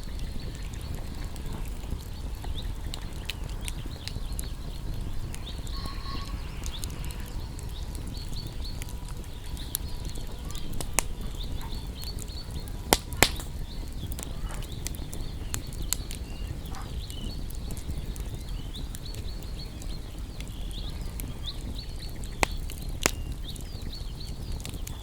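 Wood campfire burning with a steady low rumble and frequent sharp crackles and pops. The loudest are a close pair of pops about 13 seconds in and two more near the end.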